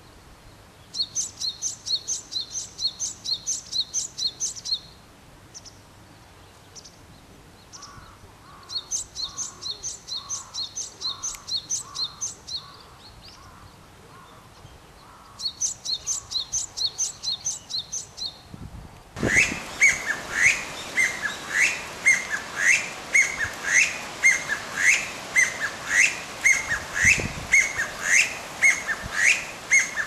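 Wild songbirds singing: three bouts of quick, evenly repeated high notes, about three or four a second, each lasting a few seconds. From about two-thirds of the way in, over a louder background hiss, a bird repeats an upward-sweeping note about twice a second.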